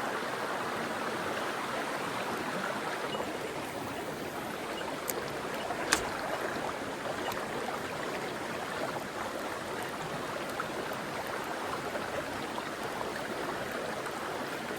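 Mountain stream water rushing steadily over rocks, with a single sharp click about six seconds in.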